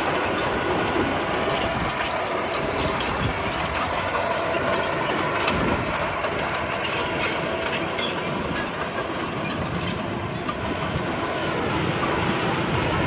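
Komatsu D31P crawler bulldozer working: its diesel engine runs steadily under the clatter and squeak of its steel tracks.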